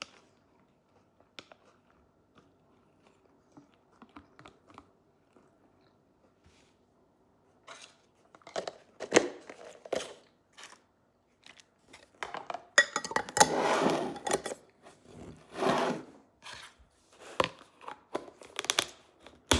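Food being handled and eaten close to the microphone: faint clicks at first, then loud bursts of crinkling, tearing and crunching from about eight seconds in, the longest lasting nearly two seconds.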